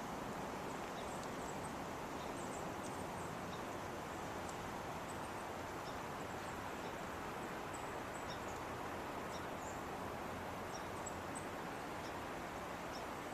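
Faint, short high bird chirps scattered throughout, over a steady outdoor background hiss.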